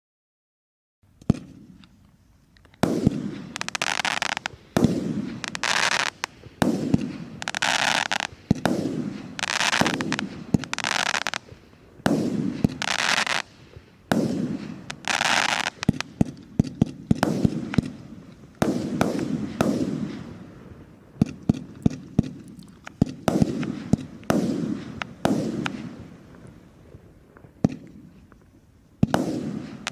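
Consumer firework battery (cake) firing shot after shot, roughly once a second, starting about a second in: each shot is a sharp launch report followed by a hissing, crackling burst, with short runs of rapid crackling pops in between.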